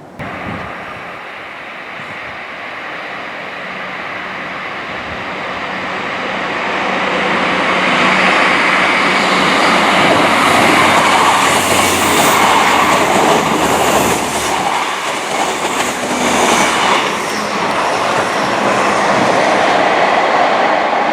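South Western Railway diesel multiple unit approaching and passing close by. The sound builds steadily over the first several seconds, then the wheels clatter rhythmically over rail joints and points for several seconds, with the train still passing at the end.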